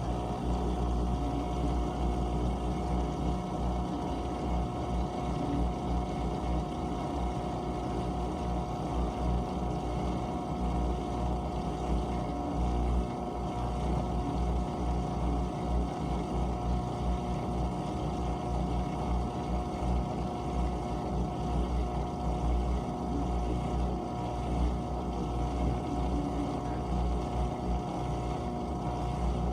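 GE dishwasher running mid-cycle: its pump motor hums steadily at a fixed pitch over an uneven low rumble of circulating water.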